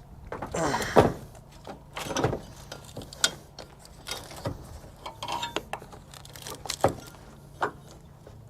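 Irregular metallic clicks and knocks as battery cables are hooked up and tightened on the truck's batteries, the loudest knock about a second in.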